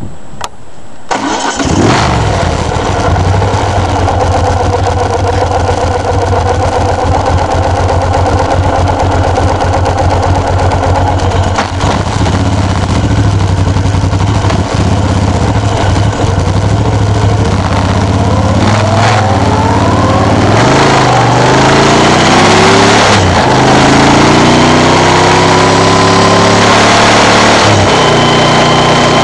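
Moto Guzzi 1100 Sport's air-cooled V-twin starts about a second and a half in and idles steadily. From about two-thirds of the way through it revs up again and again as the bike pulls away through the gears, with short breaks at each shift, then settles into a steady cruise.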